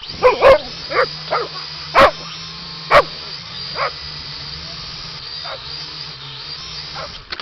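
A dog barking and yipping in short, irregular calls, several loud ones in the first three seconds and fainter ones later, over a steady whirring hum.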